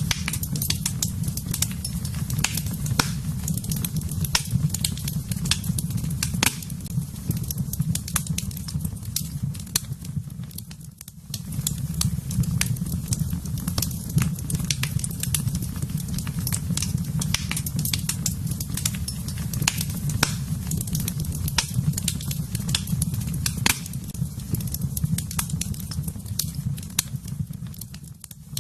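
Wood fire burning in a fireplace: irregular crackles and sharp pops over a steady low rumble. The sound briefly dips in level about eleven seconds in.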